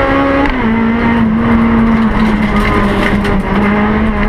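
Honda Civic Type R EP3's 2.0-litre four-cylinder race engine running at high revs under load, heard inside the caged cabin. The pitch holds nearly steady, dipping slightly about half a second in.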